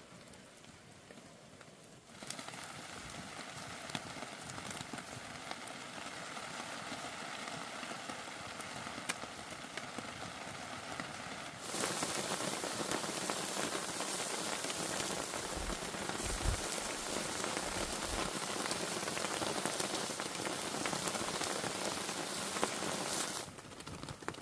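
Hot oil sizzling and crackling as chicken fries, a steady hiss. About a tenth of the way in it starts, then about halfway it suddenly gets louder, and near the end it drops back.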